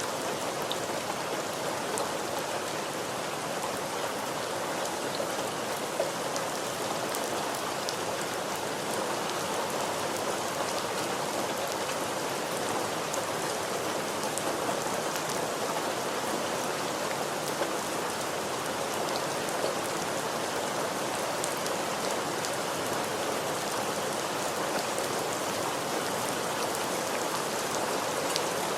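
Steady rain falling on a surface, a constant hiss with scattered individual drop ticks.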